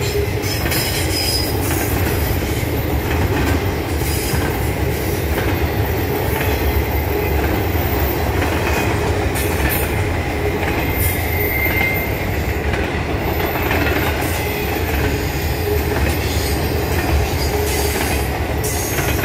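Norfolk Southern intermodal freight train's container well cars rolling past: a steady rumble of steel wheels on rail, with scattered clicks and a faint high wheel squeal a little before the middle.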